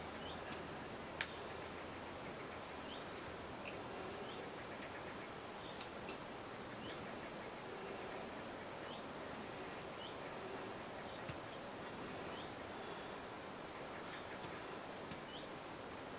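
Small birds chirping, short falling chirps repeated irregularly over a steady background hiss. One sharp click about a second in.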